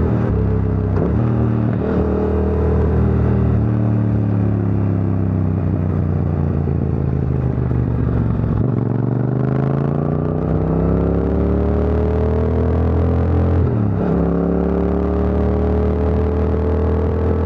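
Yamaha MT-07's parallel-twin engine running through an Akrapovic exhaust while riding. It goes through a few quick gear changes in the first few seconds, then the pitch falls steadily as the bike slows, rises in one long pull of acceleration, shifts once about fourteen seconds in, and climbs slowly again.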